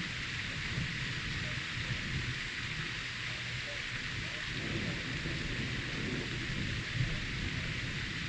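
Steady hiss of heavy rain in a thunderstorm, with a low rumble of thunder underneath that grows fuller about halfway through.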